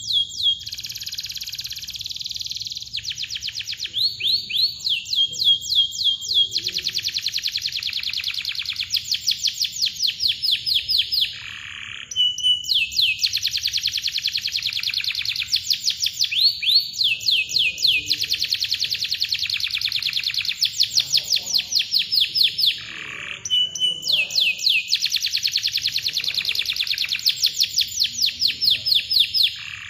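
Domestic canary singing: long, tight rolls of fast repeated chirps, broken now and then by a brief held whistle note.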